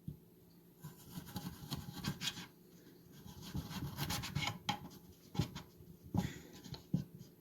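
Kitchen knife cutting through a raw carrot on a cutting board: irregular slicing and scraping strokes with a few sharper knocks of the blade on the board.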